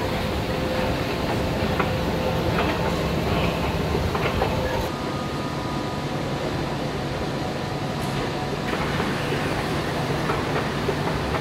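Train running on rails: a steady rumble with scattered sharp clicks. Faint high steady tones join about five seconds in.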